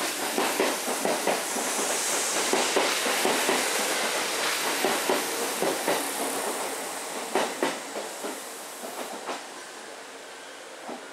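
Train wheels running on rails, clacking irregularly over rail joints, with a rushing noise that fades steadily as the train moves away.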